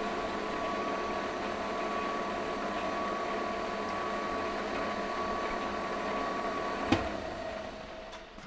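Manual milling machine running, its end mill climb-cutting across the top of a block to face it: a steady machine hum with a high whine. A click about seven seconds in, where the whine stops, and then the sound fades out.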